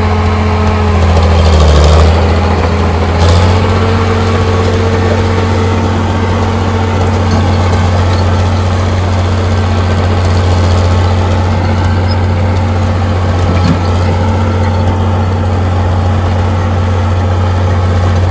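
Caterpillar D6B bulldozer's diesel engine idling. The engine note dips and lurches briefly about two seconds in, then runs steadily.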